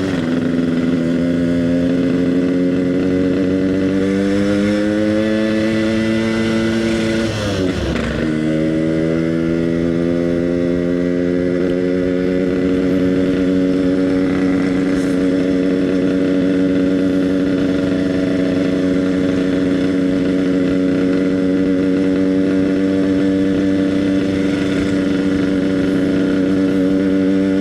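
Yamaha RX King single-cylinder two-stroke motorcycle engine with an EnzyProject exhaust, under way: revs climb slowly in gear, drop sharply at a gear change about eight seconds in, then settle into a steady cruise.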